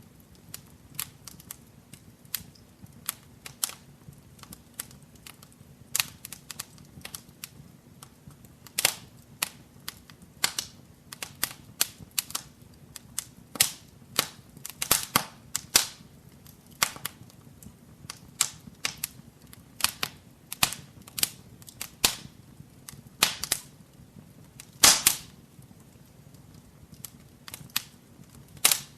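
Wood fire burning in a fireplace, crackling with frequent sharp irregular pops over a faint low rumble, one louder pop near the end.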